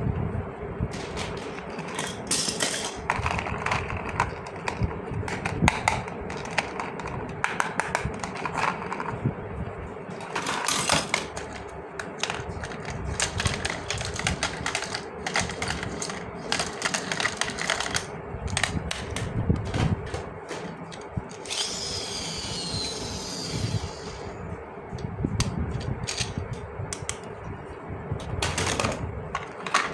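Small plastic toy parts and packaging handled close up: a dense run of light clicks, taps and rattles, with a spell of crinkling about two-thirds of the way through.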